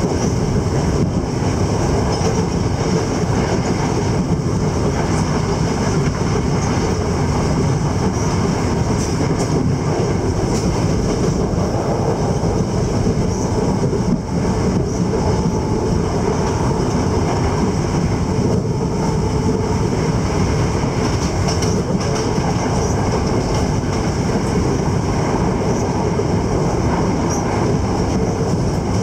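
Passenger train running at speed, heard from inside the carriage: a steady, loud rumble of wheels on the rails with occasional faint clacks.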